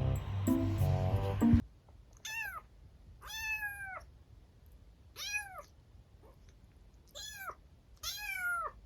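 Background music that cuts off about one and a half seconds in, followed by a kitten meowing five times, each meow rising and then falling in pitch.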